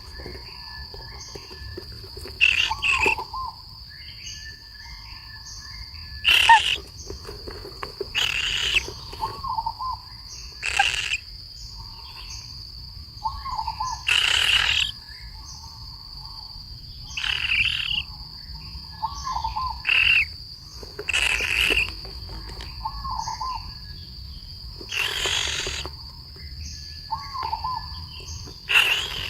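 Loud, harsh bird calls every two to four seconds, with softer short whistled notes between them, over a steady high-pitched insect drone.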